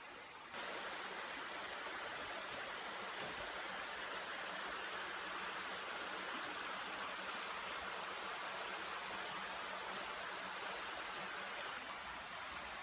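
Steady rush of flowing water, starting abruptly about half a second in, with a faint low hum underneath.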